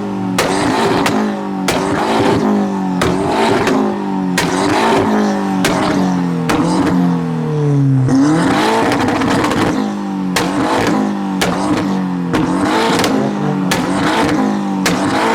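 Car engine held at high revs during a burnout, bouncing off the rev limiter a little under twice a second, with sharp exhaust pops at each cut. About halfway through the revs drop further and climb back up.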